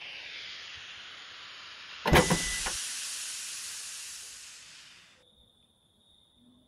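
Hissing from a broken-down car's engine, then about two seconds in a clattering clunk as the hood springs open, with a loud burst of hissing that fades away over about three seconds.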